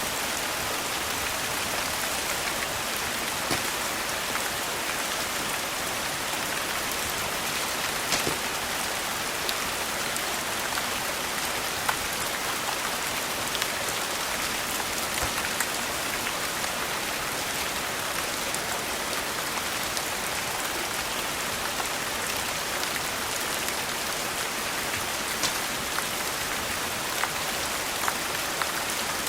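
Steady rain falling, an even hiss with scattered sharp ticks and pops throughout.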